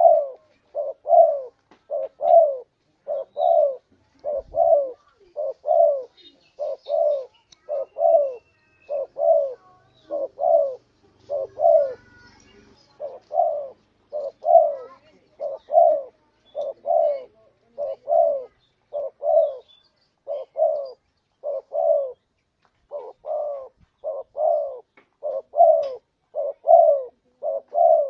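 Spotted dove cooing over and over: short, soft coo notes, each dipping slightly in pitch, repeated more than once a second with brief pauses. It is a lure call, meant to draw wild doves in.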